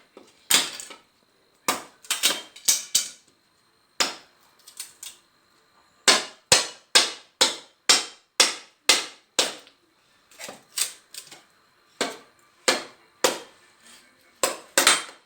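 Firewood being split into thin kindling sticks: a series of sharp cracking strikes, irregular at first, then a steady run of about two a second through the middle.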